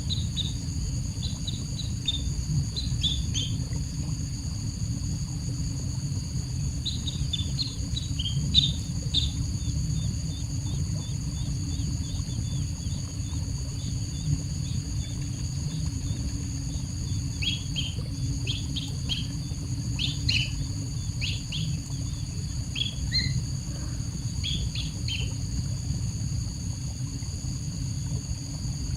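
A small bird giving short, high-pitched chirps in scattered clusters, over a steady high insect drone and a low rumble.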